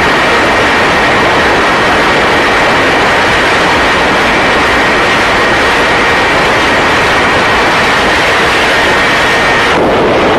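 Loud, steady engine roar with a constant high whine running through it; the sound changes character near the end.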